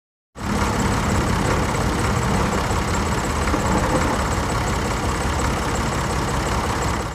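Tractor engine running steadily with a low rumble. The sound cuts in abruptly about a third of a second in and cuts off abruptly at the end.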